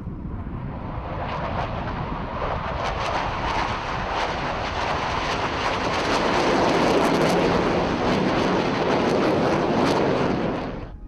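Jet aircraft engine noise as a display jet flies past, a steady roar that builds louder over several seconds. It cuts off abruptly near the end.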